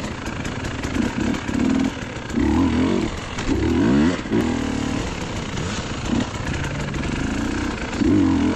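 Dirt bike engine revving up and down as it is ridden, its pitch repeatedly climbing and dropping.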